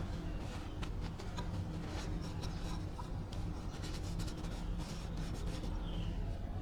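Irregular scraping and rubbing strokes, with a steady low machine hum underneath.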